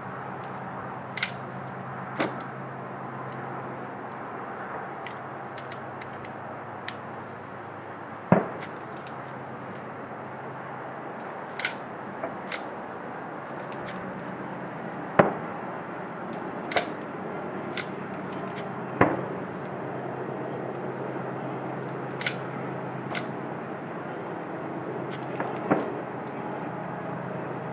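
Distant aerial fireworks shells going off: about a dozen sharp bangs at irregular intervals, three of them louder than the rest. A steady low hum runs underneath.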